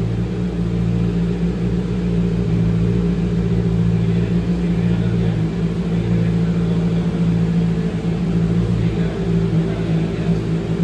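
Honda CBR650R inline-four engine idling steadily.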